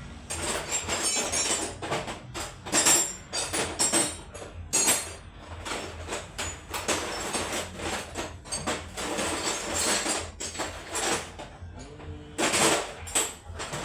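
Metal hand tools (wrenches and sockets) clattering and clinking against each other as they are rummaged through in a tool-chest drawer, in an irregular run of knocks and jingles.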